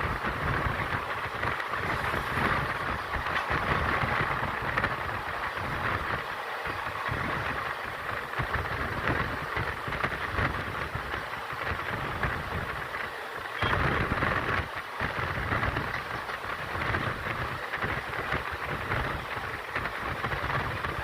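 Passenger train running: a steady rumble and rushing noise with irregular clatter of the wheels on the track, a little louder from about 14 seconds in.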